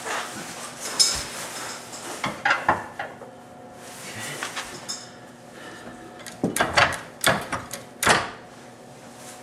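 Irregular metallic clanks and rattles of tools and suspension parts being handled while a rear subframe cross member is jacked up and lined up under a car: a knock about a second in, a couple more a little later, and a quick cluster of clatters near the end.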